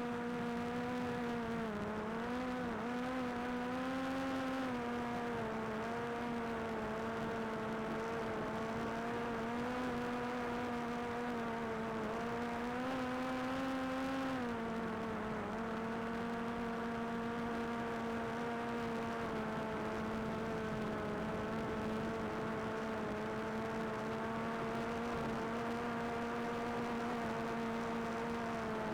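DJI Air 2S quadcopter's propellers humming steadily while hovering, the pitch wavering slightly as the motors adjust, with a brief dip about halfway through.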